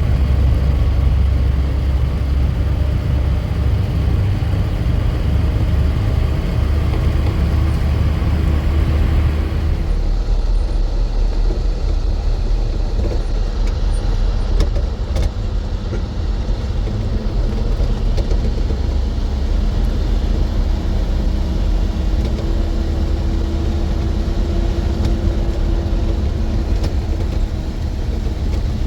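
A motor vehicle's engine running steadily while driving, a continuous low rumble. The higher hiss over it drops away about ten seconds in.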